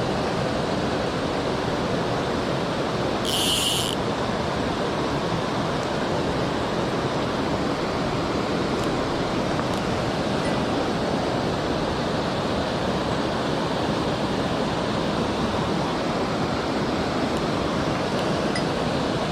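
Mountain stream rushing steadily, with a brief high hiss about three seconds in.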